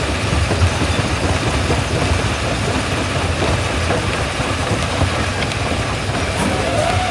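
Quarry jaw crusher running under load, a steady heavy rumble with constant rattling and grinding of rock being crushed. A faint steady whine comes in near the end.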